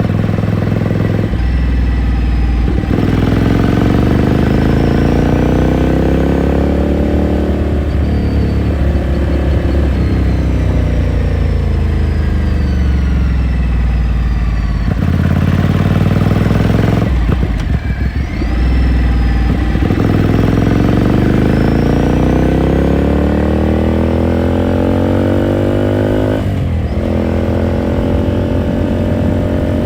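2018 Ducati Scrambler Sixty2's air-cooled 399 cc L-twin engine and exhaust heard onboard while riding. The note rises in pitch as it accelerates, falls away as the throttle eases off, then climbs again, and a gear change near the end breaks it to a lower, steady note.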